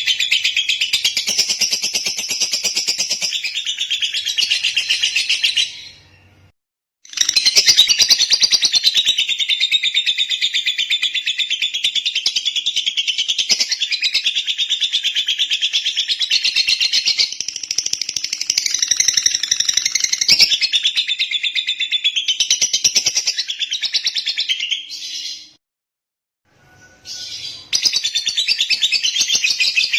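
Lovebird singing a long, fast, continuous chattering trill, breaking off twice for about a second or two before starting again.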